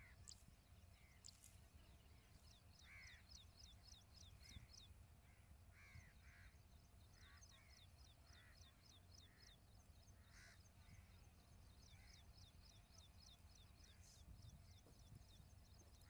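Faint bird calls: a fast run of short, high, falling notes, about six a second, with scattered lower, harsher calls and a steady low rumble underneath.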